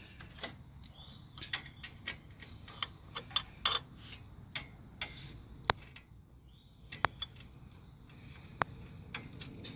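Hand ratchet clicking in short, irregular spurts as a bolt on the A/C condenser is run down, with a few sharp metallic clinks that ring briefly.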